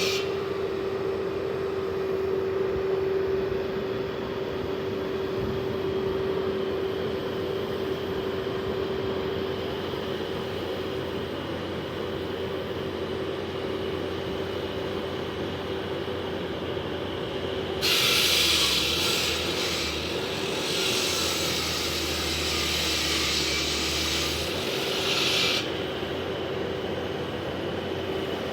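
Concrete saw cutting asphalt, its engine and blade running with a steady whine. About two-thirds of the way in, a louder harsh hissing grind sets in for about seven seconds, then drops back.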